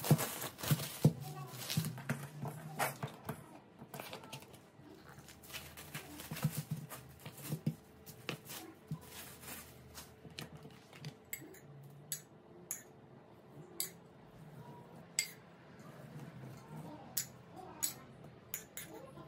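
Scattered sharp clinks and knocks of kitchenware being handled, frequent at first and sparser later, with faint voices in between.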